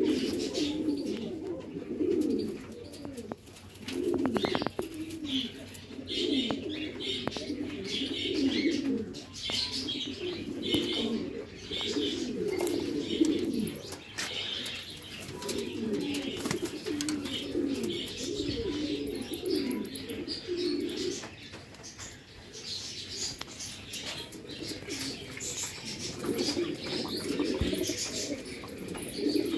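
Pigeons cooing over and over in low, warbling calls, with higher bird chirps scattered throughout. The cooing eases off for a few seconds past the middle, then picks up again near the end.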